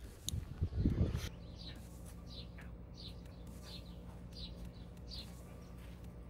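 A bird chirping over and over, each call a short falling chirp, with a steady low hum beneath. About a second in there is a brief loud rustle and knock, the loudest sound.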